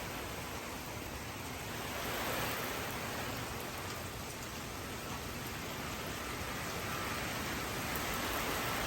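Steady rain falling, an even hiss that swells slightly about two seconds in.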